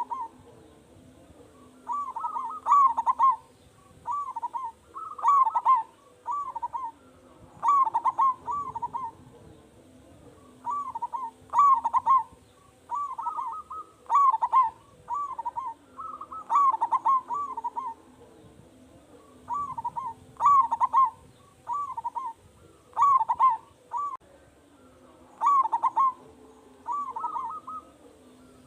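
Zebra dove (perkutut) cooing: short rolling coo phrases repeated every few seconds, with brief pauses between them.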